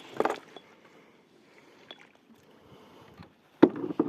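Handling noises in a kayak: a short knock just after the start, then near silence, then a sharp knock near the end followed by a brief scuffle.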